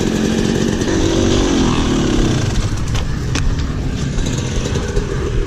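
Dirt bike engine running under load, its pitch dropping off about two seconds in, with a few sharp clicks a second later.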